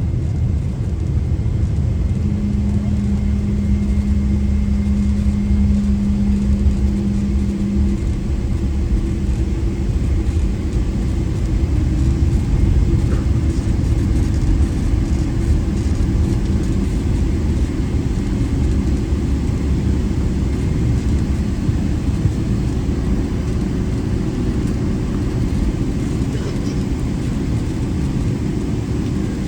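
Steady low cabin rumble of a Boeing 777-300ER slowing on the runway after touchdown, with a steady hum for several seconds early on.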